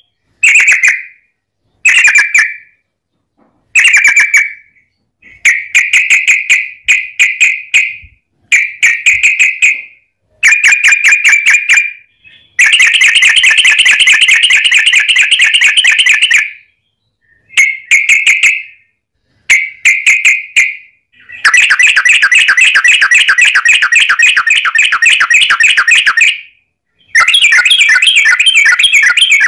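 Yellow-vented bulbul (trucukan) singing its rapid, chattering trill in repeated bursts. Most bursts last a second or two; twice, roughly midway and again later, it runs on unbroken for four to five seconds (the long 'ropel' song).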